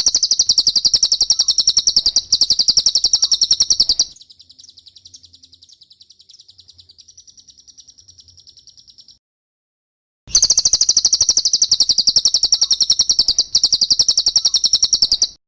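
Cililin bird song: a rapid, loud, high-pitched trill of repeated notes, which drops to a much quieter run of notes about four seconds in, falls silent for about a second, then comes back loud and stops just before the end.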